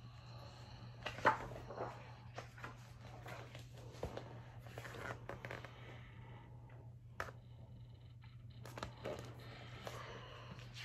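Faint rustling of paper and a few small knocks as a picture book is handled and its pages turned, over a steady low hum.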